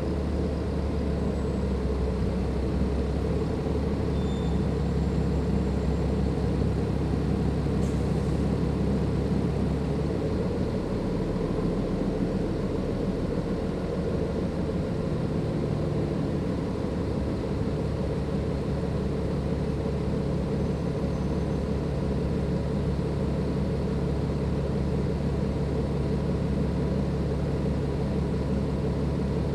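Dennis Enviro 500 double-decker bus's Cummins ISLe diesel engine running steadily under way, with a faint steady turbo whine above it. The engine note shifts about ten seconds in and again a few seconds later.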